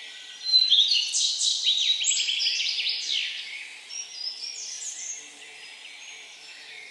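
A songbird singing one loud song of rapid trilled notes for about three seconds, followed by a few softer notes, over a faint background chorus of other birds.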